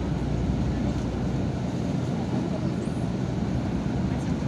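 Yutong ZK6128HG city bus under way, heard from inside the cabin: a steady low engine and road rumble.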